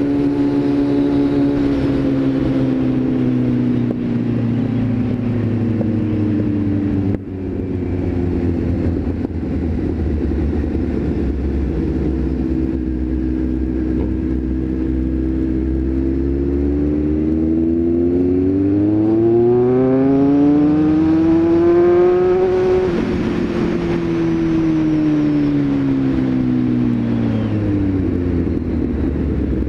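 Car engine running while driving, its pitch sinking as it slows, then climbing steadily as it accelerates and dropping sharply about 23 seconds in at a gear change, before falling away again.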